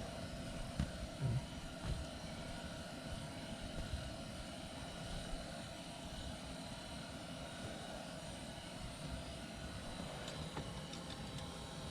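Strong wind buffeting an ice-fishing shelter: a steady, fluctuating low rumble, with faint steady tones above it.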